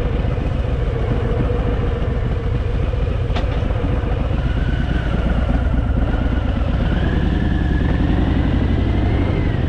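Harley-Davidson V-twin motorcycle engine running steadily while riding, heard from on the bike with road and wind noise, its pitch rising a little about seven seconds in.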